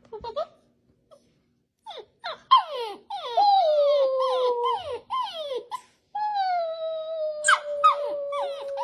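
A dog whining and howling: a series of short falling whines, then one long drawn-out howl from about six seconds in.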